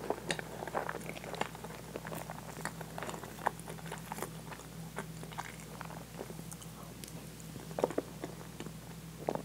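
Close-miked chewing of very soft French toast with whipped cream: small wet, sticky mouth clicks and smacks, a few louder ones near the end, over a faint steady hum.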